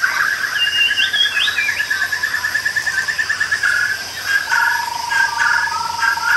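Rainforest ambience: insects trill steadily in rapid pulses over a high, even insect hiss, and a bird calls short stepped whistled phrases about a second in.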